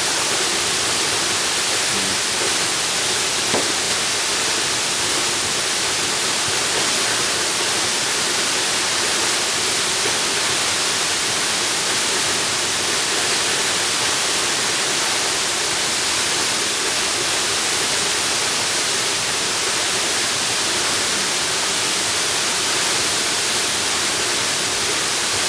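A waterfall rushing steadily: an even, unbroken hiss of falling water, strongest in the high range.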